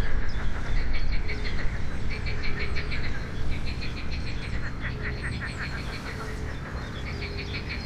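Songbirds singing in repeated bouts of rapid chirps, with a short low note recurring about every second and a half, over a low steady rumble.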